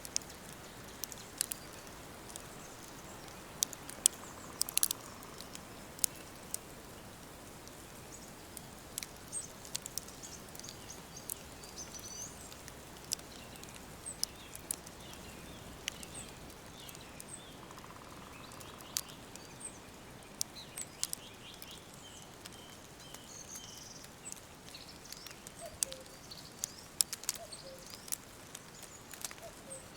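Woodland birds chirping and singing in short calls and quick runs of notes, over a steady soft hiss. Scattered sharp clicks and crackles are heard throughout.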